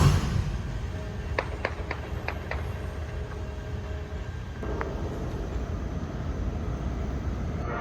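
Freight train rolling past with a steady low rumble. A quick run of short, high squeaks comes about a second and a half in, and one more near five seconds, typical of wheel flanges on the rail.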